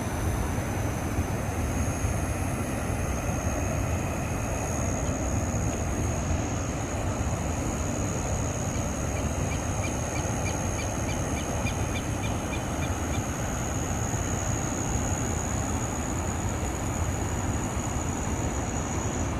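Overflowing reservoir spillway: a steady, loud rush of water pouring over the spillway. A steady high-pitched tone runs over it, and midway a string of about ten short, quick chirps.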